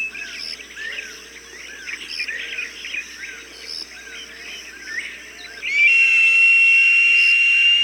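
Recorded bird calls from a hawk-sound bird-deterrent track: a run of short rising-and-falling chirps, about two a second, then from about six seconds in a loud, long, steady high whistled call.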